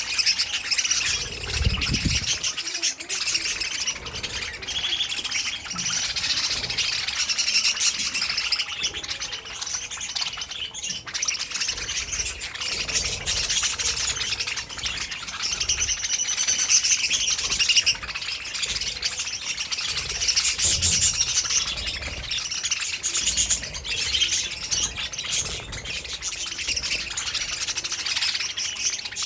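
A flock of budgerigars chirping and warbling continuously, many birds calling over one another.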